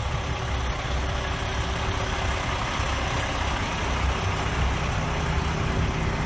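Heavy trucks' engines running steadily as the trucks drive slowly past.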